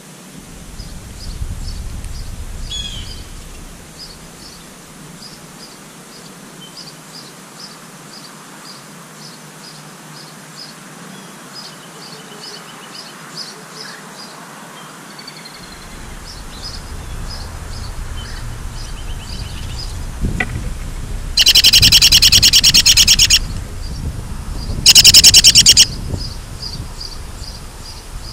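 Birds calling: a steady series of short high chirps, about two or three a second, then two loud, harsh trills of a second or two each near the end.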